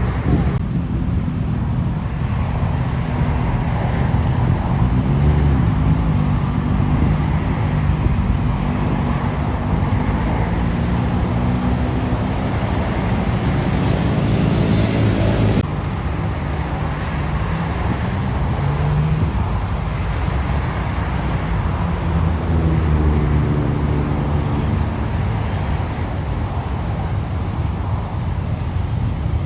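Motorcycle engines passing by over steady road noise, rising in pitch as the bikes accelerate. The sound changes abruptly about halfway through, then another engine passes.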